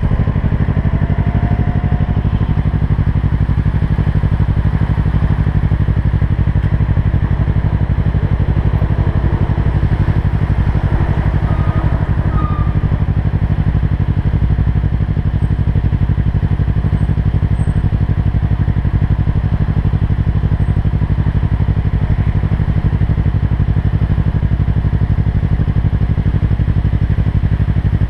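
Kawasaki Versys 650 parallel-twin engine running steadily at one unchanging engine speed, with no revving.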